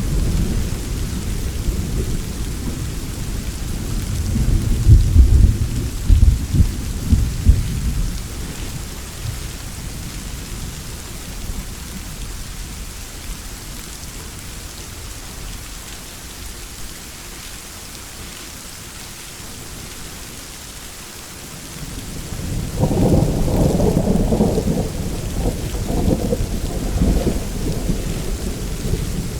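Steady rain with rolling thunder: a loud low rumble builds and peaks about four to eight seconds in, then dies away, and a second roll of thunder starts near the end.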